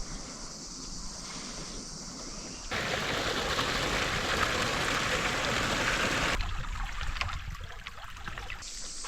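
Outdoor ambience spliced from several clips that change abruptly about three seconds in and again near six and a half seconds. The loudest, middle stretch is a steady rush of running water.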